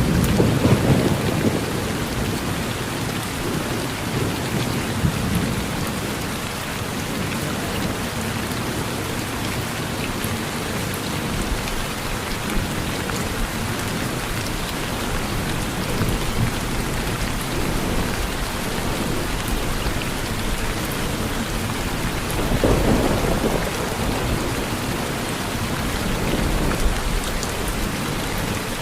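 Steady rain falling on a porch, with low rumbles of distant thunder near the start and again about three-quarters of the way through.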